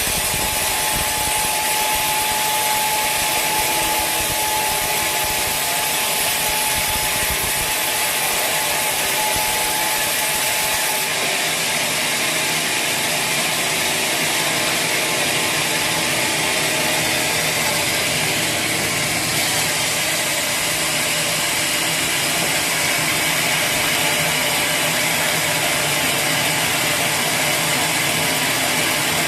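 Sawmill saw cutting through a log: a steady, loud sawing noise with a high whine through the first ten seconds or so. The whine drops out about eleven seconds in and the noise carries on.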